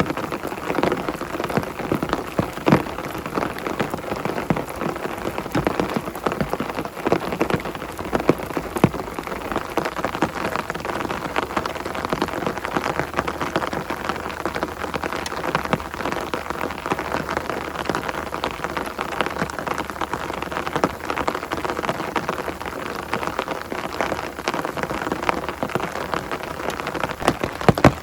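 Heavy rain falling, with a dense, steady patter of individual drops striking a surface.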